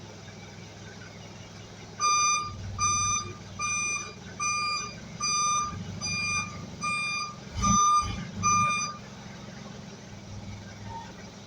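An electronic warning beeper sounds nine even beeps, a little under one a second, starting about two seconds in and stopping near the end, over a steady low engine hum.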